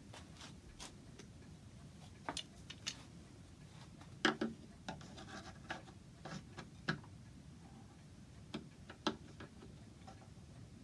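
Light knocks, clicks and scrapes of wooden clock-case parts being handled and fitted, with one louder knock about four seconds in.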